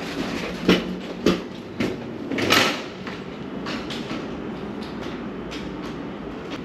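A few sharp knocks and clicks, the loudest about two and a half seconds in, then the steady rumble of the cargo van running.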